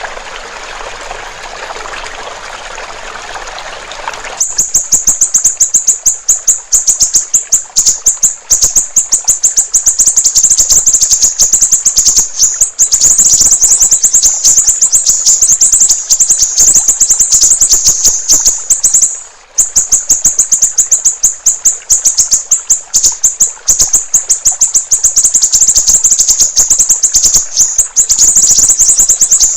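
Trickling water for the first few seconds. Then a siri-siri bird's loud, high-pitched chattering trill takes over: very rapid notes run on without letup, apart from one short break about two-thirds of the way through.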